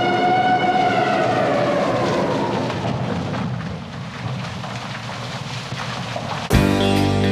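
A sustained horn-like tone over a rumbling noise slowly sinks in pitch and fades, and then plucked guitar music starts suddenly near the end.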